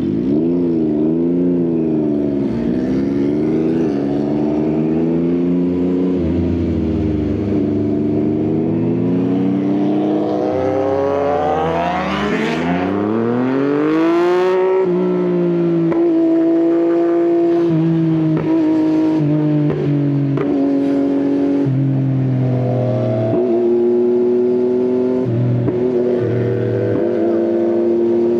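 Yamaha XSR900's inline-three engine through an Akrapovič exhaust, under way: the note rises and falls with the throttle, climbs in pitch with the revs about halfway through and drops at a gear change, then runs at a steady speed.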